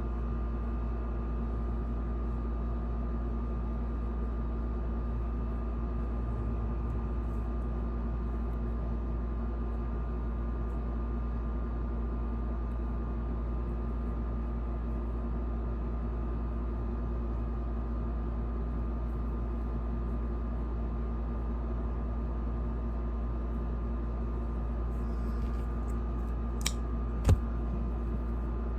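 A steady mechanical hum with a strong low drone and a few faint steady tones, with two sharp clicks near the end, the second louder.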